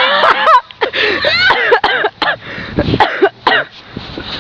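People's voices making short bursts of wordless vocal sounds, one after another, with sharp breaks between them.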